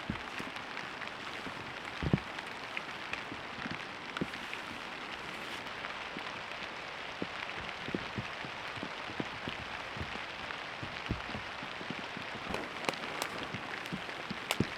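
Steady rain falling, an even hiss with many separate drops tapping, and one louder thump about two seconds in.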